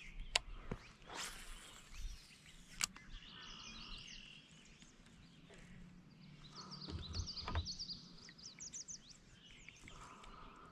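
Small birds chirping in quick runs of short high notes, twice, over faint outdoor background noise. A couple of sharp clicks sound early on.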